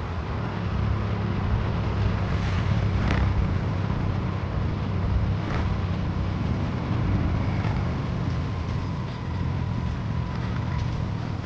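Wind buffeting the microphone while riding, with road rumble underneath: a steady low rumble with a faint thin tone above it.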